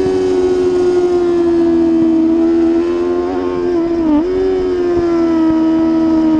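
Superbike racing motorcycle engine running at high revs, a steady high note whose pitch sags slowly, with a brief dip and recovery about four seconds in.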